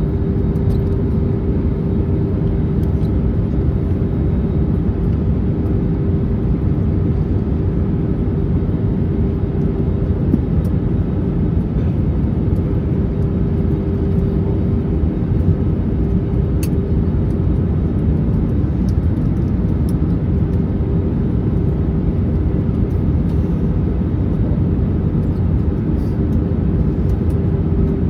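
Steady cabin noise inside an Airbus A321neo on descent: the rush of airflow and the drone of its Pratt & Whitney geared turbofan engines, with one steady hum held throughout.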